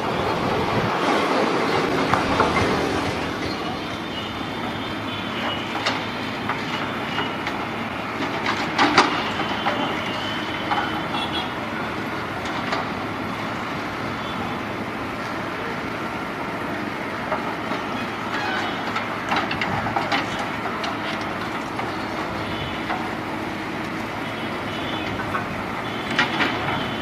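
Moving train running on the rails: a steady rumble with irregular wheel clacks over rail joints and faint high squeals now and then.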